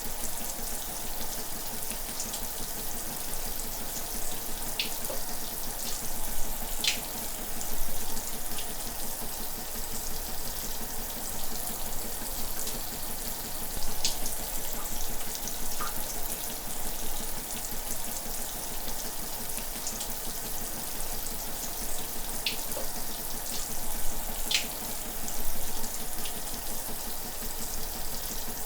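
Shower running steadily, its water spray hissing evenly, with a few brief splashy ticks scattered through it.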